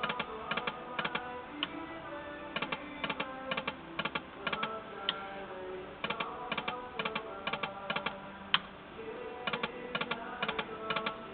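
Timber Wolf slot machine's win sounds: rapid pairs and clusters of clicks over a run of electronic tones as a win pays out.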